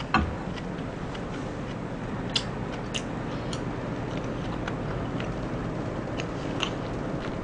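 Mouth sounds of someone chewing a mouthful of shaved-ice dessert: soft, irregular wet clicks over a steady low background hum.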